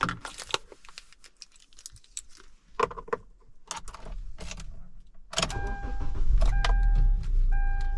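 Car keys jingling and clicking in the ignition of a 2012 Hyundai Elantra Touring, then the engine cranks and starts about five seconds in and keeps running with a steady low rumble. An electronic chime tone sounds in short stretches once the engine is running.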